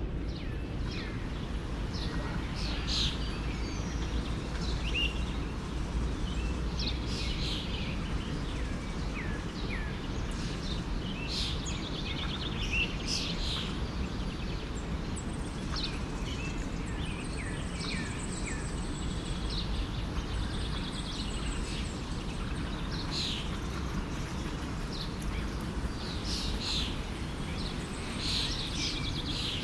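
A forest stream running steadily, with many small birds chirping and calling over it throughout.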